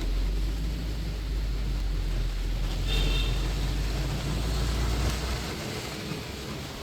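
Moving tour bus in rain with street traffic around it: a steady wash of noise over a deep rumble that fades out about five and a half seconds in. A brief high horn beep sounds about three seconds in.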